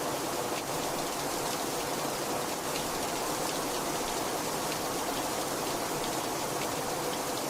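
Heavy rain falling steadily, a dense even hiss with scattered drops ticking.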